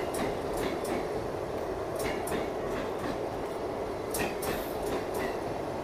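Electric MEMU shuttle train running past, a steady rumble of wheels on track with sharp clicks at uneven intervals as the wheels cross rail joints.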